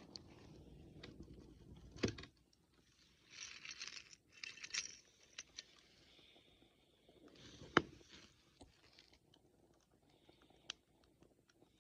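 Wood campfire crackling, with scattered sharp pops, the loudest about two and about eight seconds in, and short spells of hissing.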